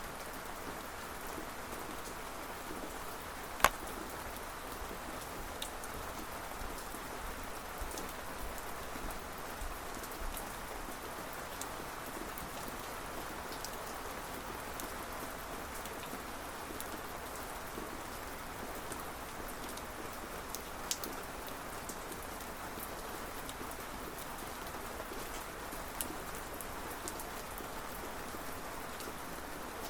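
Steady rain falling on a surface, with sharp drop ticks scattered through it and one louder tick about four seconds in.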